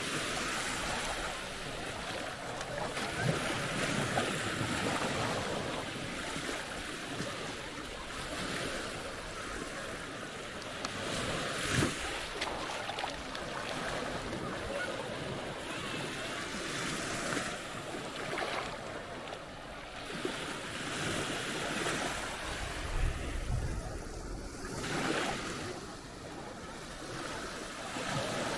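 Sea waves breaking and washing up a beach, swelling and ebbing every few seconds, with some wind.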